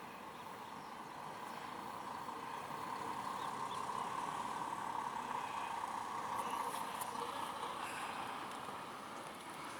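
Scania truck loaded with corn running, a steady engine and road noise that grows louder to a peak around the middle, then eases slightly.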